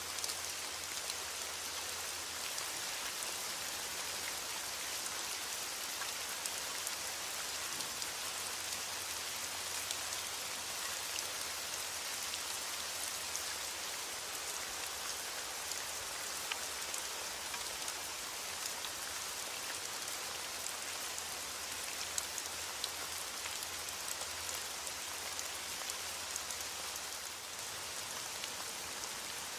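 Heavy rain falling steadily on a window: an even hiss, sprinkled with many small clicks.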